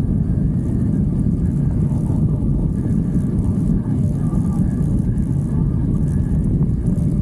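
Steady rumble of wind buffeting the microphone and motorcycle engine noise while riding.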